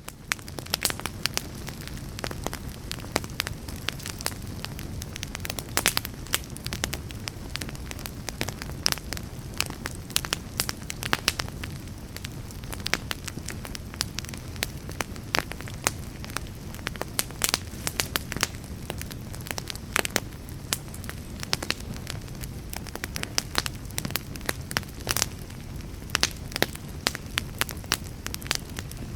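Wood fire burning, with frequent irregular sharp crackles and pops over a low, steady rumble.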